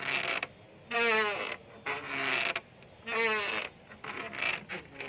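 A bamboo swing creaking rhythmically as it swings. A squeak with a falling pitch comes about every two seconds, with softer rubbing creaks in between.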